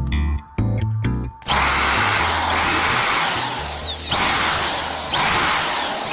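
Background music, then about a second and a half in a small electric power tool starts up and runs under load in three stretches with short dips between. Its motor whine rises and falls.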